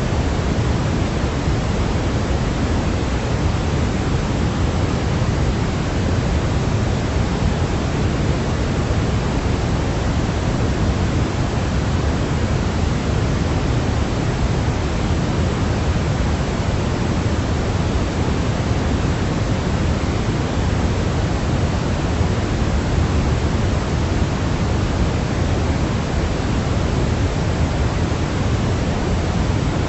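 Steady, unchanging sleep noise, an even rushing hiss that is heavier in the low end than pure white noise, like pink noise.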